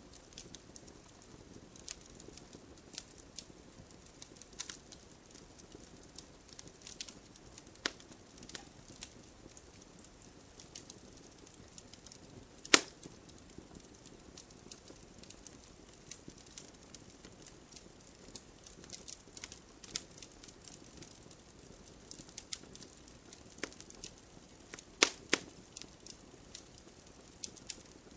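Wood fire crackling with irregular sharp pops, the loudest about halfway through and a cluster of them near the end, over a faint steady hiss of rain.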